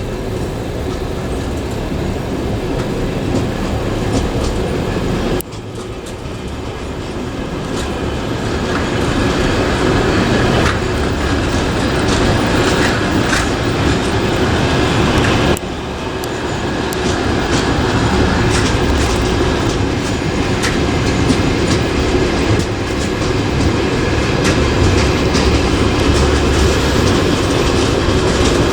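Passenger train running, heard from a carriage window: its wheels clatter over the rail joints with a steady rolling noise. The level drops suddenly twice, about five and fifteen seconds in, then builds up again.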